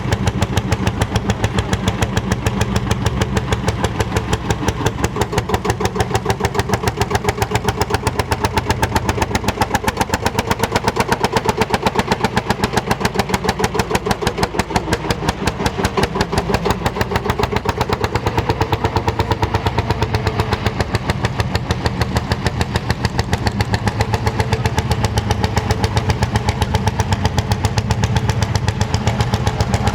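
Lanz Bulldog tractor's single-cylinder two-stroke hot-bulb engine running, with an even, rapid beat of exhaust pulses.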